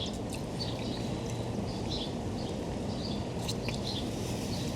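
Small birds chirping in short, scattered calls, several times throughout, over a steady low background rumble.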